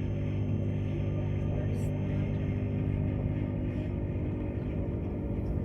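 Steady running noise of the electric Tilt Train heard from inside a passenger carriage: a constant low hum with several steady tones over it.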